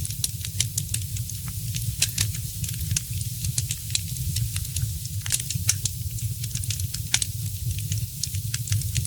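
Fireplace fire crackling: frequent sharp pops and snaps, several a second, over a steady low rumble.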